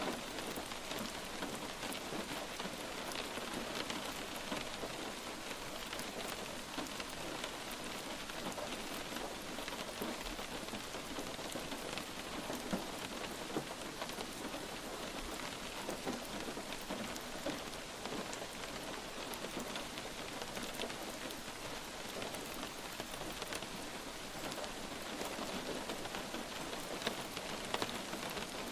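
Steady light rain falling on a surface, an even hiss dotted with the small ticks of individual drops.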